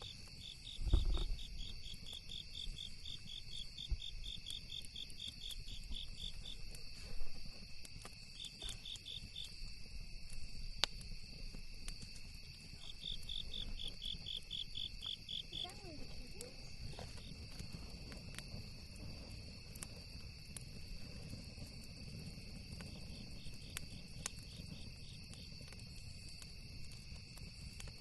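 Crickets trilling steadily, with several runs of rapid, evenly pulsed chirping, over scattered sharp crackles and pops from a campfire. A low thump about a second in.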